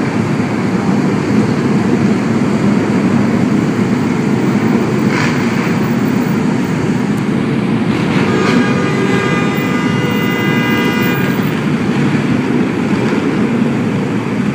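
A large group of motorcycles riding past, their engines making a dense, steady rumble. A high pitched tone sounds over it for about three seconds past the middle.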